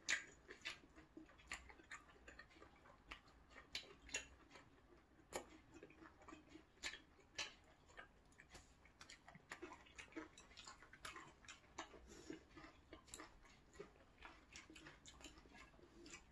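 Quiet, close-up chewing: irregular wet mouth clicks and smacks, about two or three a second, as a person eats.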